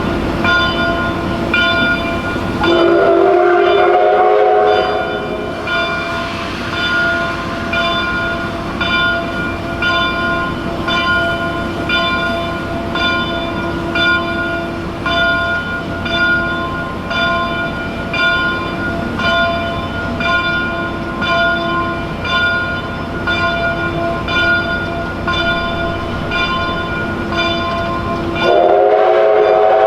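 Steam locomotive's bell ringing at a steady, even rhythm, over the low rumble of the train. The chime steam whistle blows a chord for about two seconds, about three seconds in, and sounds again near the end.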